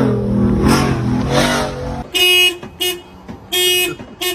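A vehicle engine revs, its pitch rising and falling, until it cuts off about two seconds in. Then a vehicle horn honks in a repeated pattern of one long blast and one short blast, twice.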